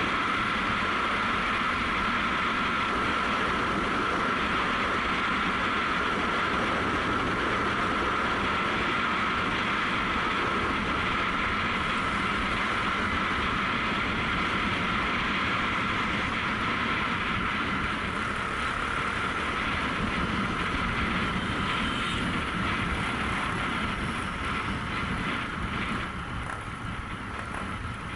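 A 2015 Honda CRF250L's single-cylinder four-stroke engine running steadily at road speed, heard from a camera mounted on the bike, with wind rushing over the microphone. The sound eases a little in the last few seconds.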